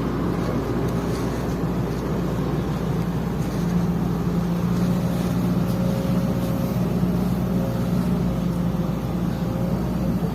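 Sumitomo hydraulic excavator's diesel engine running steadily at a constant pitch.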